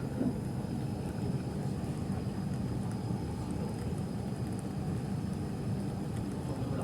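Steady low rumble of an MTR East Rail Line R-train, a Hyundai Rotem electric multiple unit, heard from inside the passenger car, with a faint thin high tone held over it.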